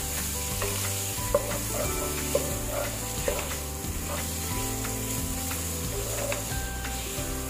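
Marinated chicken keema sizzling in spiced masala as a wooden spatula stirs and turns it in a nonstick wok, with a few light scrapes of the spatula on the pan. This is the bhuna stage, frying the chicken down in the oil-separated masala.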